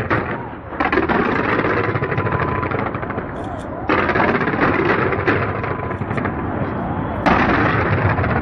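Fireworks fired from the sides of a skyscraper, a dense, rapid crackling and popping. Fresh volleys come in suddenly about a second in, near the middle and near the end.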